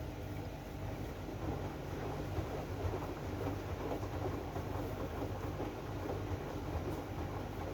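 AEG front-loading washing machine running its drum-clean cycle: a steady rumbling churn with a low hum underneath.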